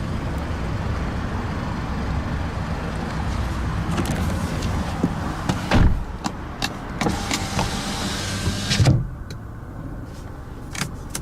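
A Mazda 6's engine idling steadily, with clicks and knocks of a car's interior being handled. About nine seconds in a thump is followed by a clearly quieter, muffled hum, as when a car door shuts.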